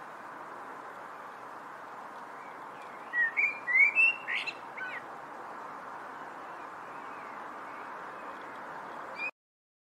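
A songbird sings one short phrase of several quick, clear notes that glide up and down, about three seconds in, over a steady outdoor hiss. The sound cuts off abruptly near the end.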